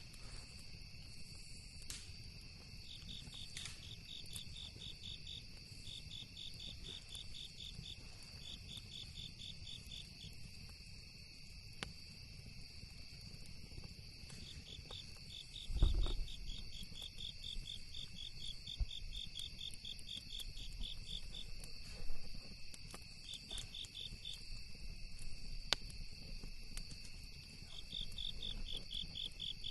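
Crickets trilling in short, rapidly pulsed bursts over a steady high insect drone, with a few sharp campfire crackles and one low thud about halfway through.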